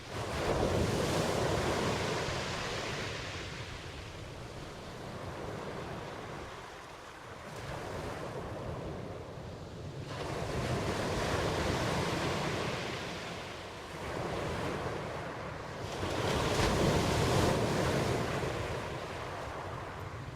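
Ocean waves surging in and washing back, a rising and falling hiss with a sudden swell at the start, several smaller surges, and another strong one near the end.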